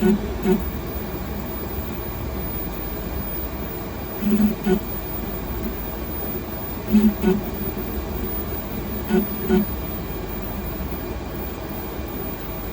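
Continuous fibre fabrication 3D printer running mid-build: a steady machine hum, with pairs of short pitched motor buzzes about half a second apart every few seconds as the print head moves.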